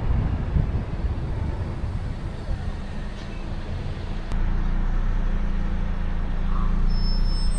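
Low, steady rumble of road traffic. It turns steadier and a little louder about four seconds in.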